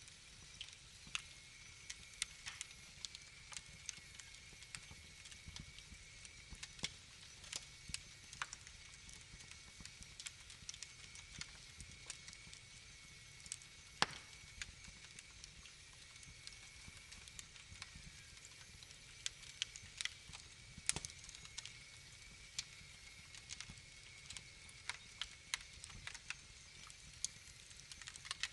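Wood fire crackling in a fireplace: irregular sharp pops and snaps over a soft hiss, the loudest pop about halfway through.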